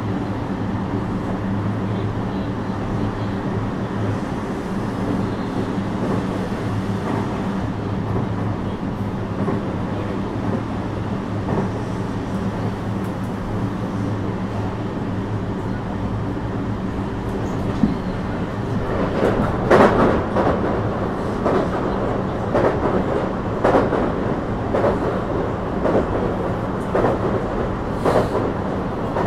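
JR West 321 series electric train running at steady speed, a low rumble with a steady hum. About two-thirds of the way through, the wheels start knocking over rail joints, roughly once a second.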